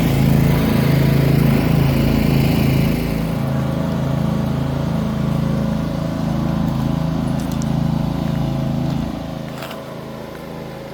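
Riding lawnmower engine running steadily, louder for the first few seconds and then easing off, dropping lower near the end.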